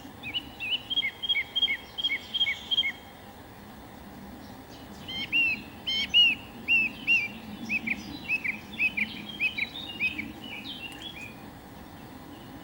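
A songbird singing two phrases of quick, repeated clear notes, the second starting about five seconds in and running longer, over a steady low background noise.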